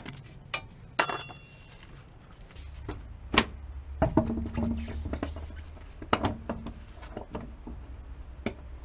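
Metal-on-metal clatter of work on a car: a sharp clang about a second in that rings on briefly, then scattered knocks and clicks. A low steady hum comes in after about two and a half seconds.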